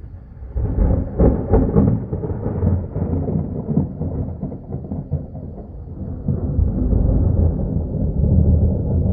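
Thunder: a sudden crackling clap about a second in rolls into a long, low rumble that swells again near the end.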